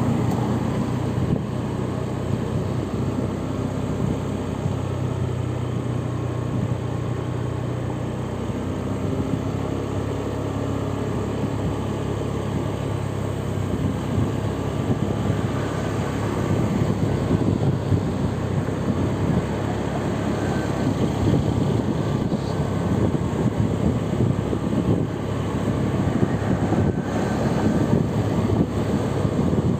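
Steady hum of a vehicle's engine with tyre and road noise while driving, the engine note shifting slightly about a third of the way in.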